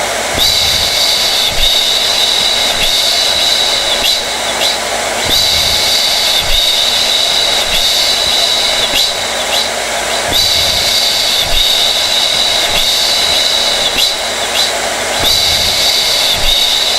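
Hair dryer (blow dryer) running steadily: rushing air and fan noise with a high whine over it. The tone shifts slightly about every five seconds.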